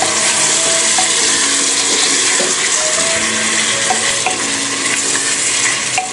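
Mutton pieces and ground spices sizzling in hot oil in an open pressure cooker pot: a steady frying hiss, with a few light clicks as the meat is stirred.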